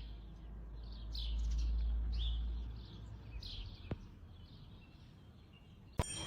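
Small birds chirping faintly, a string of short falling chirps over a low rumble during the first few seconds. A sharp click comes about four seconds in, then near silence until another click near the end.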